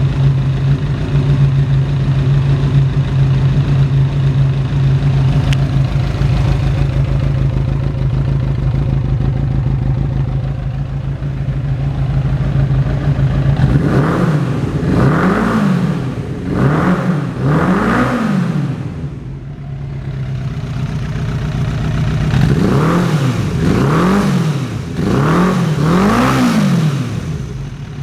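Suzuki Inazuma 400's inline-four engine, breathing through a Yoshimura four-outlet exhaust, idling steadily. About halfway in it is revved in a series of short throttle blips, each rising and falling in pitch, in two groups separated by a brief return to idle.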